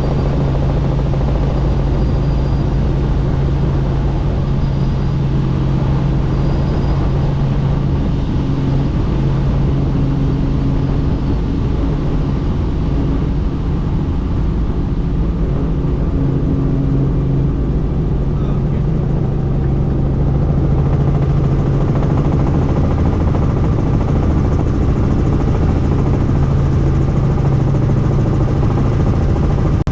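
Helicopter in level flight with its doors off, heard from inside the cabin: a steady drone of rotor and engine with a constant low hum over a rush of noise.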